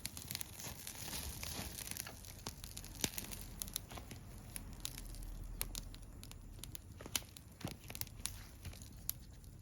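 Wood campfire crackling with irregular sharp pops, and pork toro grilling over it with a hissing sizzle that is strongest in the first couple of seconds.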